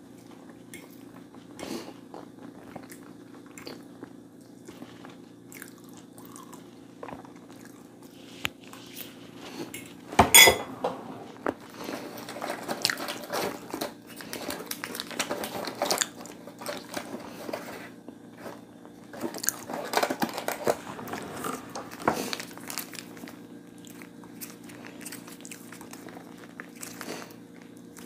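A person eating close to the microphone: one loud crunchy bite about ten seconds in, then bouts of chewing with crunches and wet, squishy mouth sounds, quieter toward the end. A steady low hum runs underneath.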